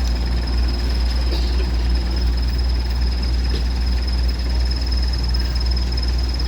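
A heavy diesel engine running steadily with a deep, unbroken low rumble, over a steady thin high-pitched whine.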